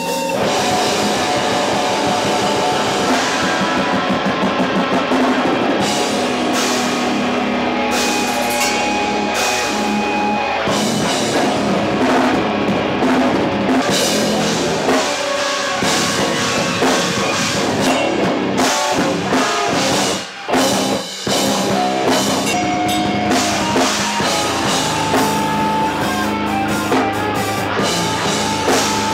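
Rock band playing loudly, with electric guitar and drum kit, warming up at practice; the playing stops briefly about twenty seconds in and then picks up again.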